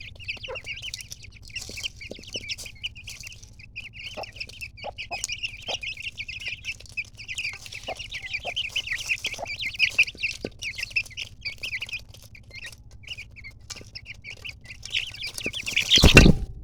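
A brood of Aseel chicks peeping constantly in a dense stream of short, high chirps, with scattered light taps among them. A loud rustling thump comes just before the end.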